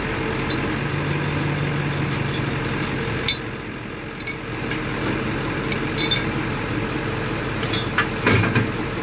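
A 1999 Ford F-450 crane truck's engine running steadily to drive the crane through its PTO, with a steady low hum over the first few seconds. Several sharp metallic clinks come through, and the loudest is near the end.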